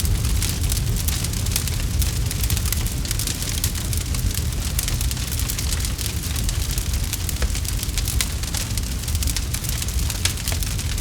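Campfire crackling steadily: a constant stream of sharp pops and snaps from burning wood over a low rumble of flames.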